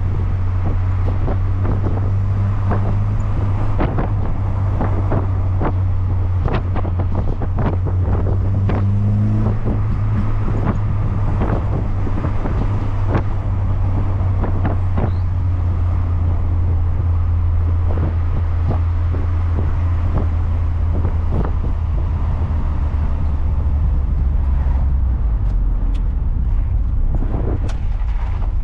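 Cabin sound of a Rover Metro running a swapped-in Lotus Elise Rover K-series four-cylinder engine, cruising at a steady engine speed with road rumble and frequent short knocks and rattles. The engine note drops near the end as the car slows.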